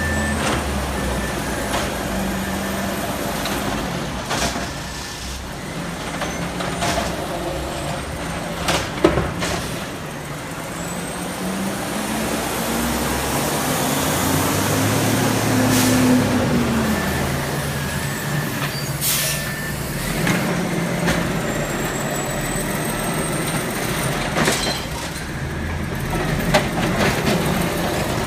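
Garbage truck's diesel engine running, revving up for several seconds in the middle and settling back, with air-brake hisses and several sharp knocks and clanks, the loudest about nine seconds in.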